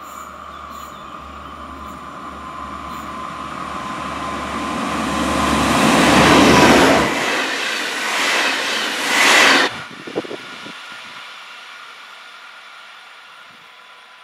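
An Alstom Coradia LINT diesel multiple unit approaches and passes close by: diesel engine hum and a steady whine grow into a loud rush of wheels on rail. The sound cuts off abruptly just before ten seconds in, leaving a much quieter train sound that fades away.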